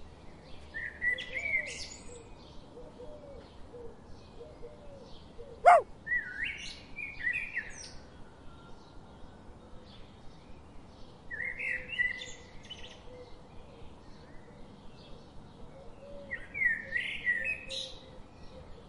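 A songbird singing short warbled phrases, four of them about five seconds apart, over faint background chirping. About six seconds in there is one loud, very quick rising whistle.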